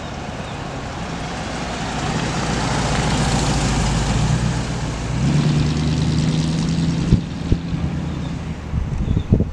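The DeSoto's 350 V8 driving. A rush of engine and road noise swells to a peak about three to four seconds in and then eases. From about five seconds a steady engine tone holds, with a few knocks near the end.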